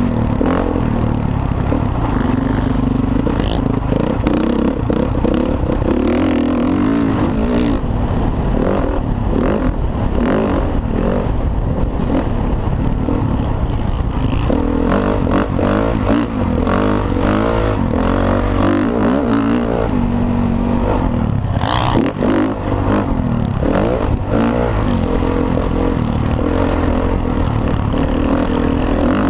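Motocross bike engine running hard, its pitch rising and falling as the throttle is worked, with the rattle and clatter of the bike over rough ground. The engine note dips briefly a little past the middle.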